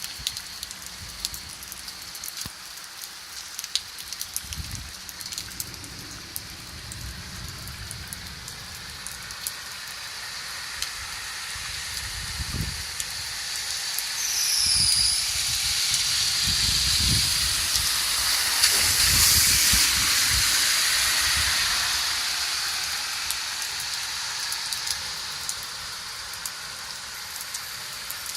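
Heavy rain pouring down, a steady hiss with a patter of sharp drop ticks. It swells to its loudest around the middle and then eases, with a few low rumbles underneath.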